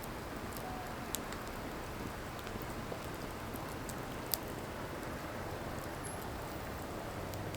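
Burning firewood: a steady hiss with scattered sharp crackles and pops, the loudest pop about four seconds in.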